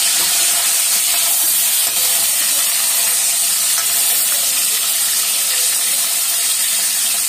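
Dried fish frying in hot oil in a steel kadai, a steady sizzle, with a steel ladle moving it about in the oil.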